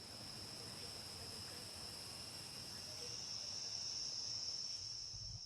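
Insect chorus in the rainforest: a steady, high-pitched drone that holds at one pitch throughout.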